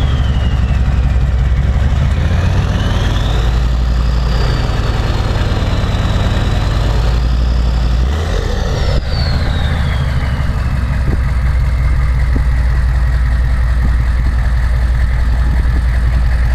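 K2500 Suburban's 6.5L turbo diesel V8 running through a 4-inch straight-pipe exhaust, with its turbo whistling over the engine rumble. The whistle falls at first, climbs about three seconds in as the engine is revved, holds high for several seconds, then falls away about nine seconds in as the engine settles back toward idle.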